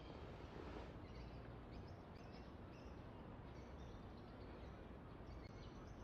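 Faint outdoor ambience with scattered faint bird chirps.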